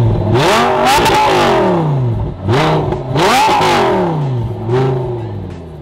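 Lamborghini Gallardo V10 revved repeatedly while parked, the engine note rising and falling in about five blips before dropping back toward idle near the end. The engine is still cold.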